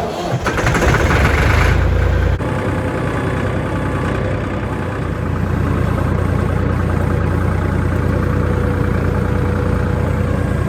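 A vehicle engine running, louder for the first two seconds and then settling into a steady run.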